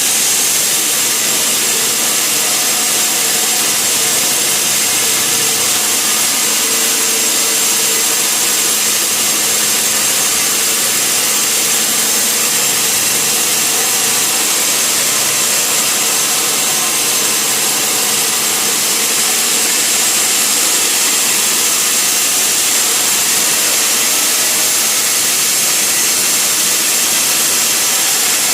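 Sawmill saw running through a log: a loud, steady, hissing machine noise with no break.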